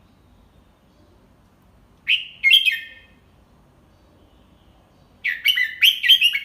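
Red-whiskered bulbul singing two short phrases of quick, bright notes: the first about two seconds in, the second and longer one about five seconds in.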